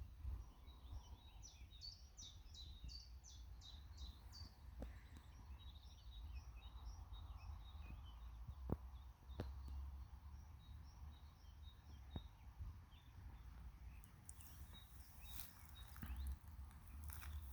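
Faint songbird chirping: a quick run of about eight high notes a couple of seconds in, then scattered chirps. A low rumble of wind on the microphone runs underneath, with a few sharp clicks.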